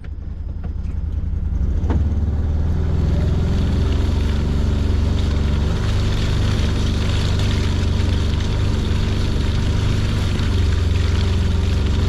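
Side-by-side UTV engine running as the machine is driven, swelling over the first two seconds and then holding a steady drone.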